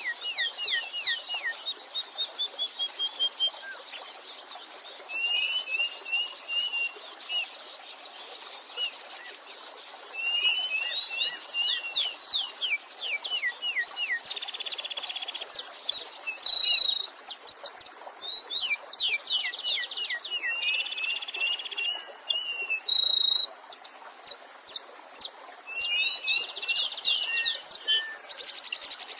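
Several songbirds singing at once, with quick falling whistled notes and a short trill repeated every few seconds, over the steady rush of a small stream.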